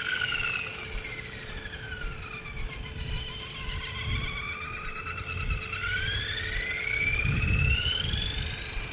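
Electric RC car's brushless motor and drivetrain whining as it drives, the pitch falling as it slows and then rising steadily as it speeds up again, over tyre rumble on the pavement.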